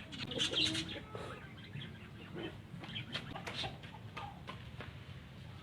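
Birds making scattered short, high calls and clucks, with soft clicks in between.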